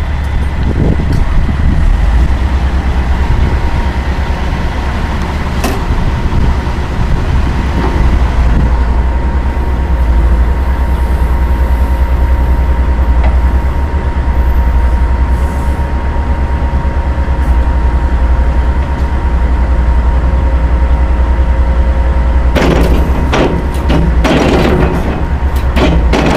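Komatsu PC200 hydraulic excavator's diesel engine running steadily, with a steady high whine over it. About 22 seconds in, loud repeated metallic clanking and rattling begins.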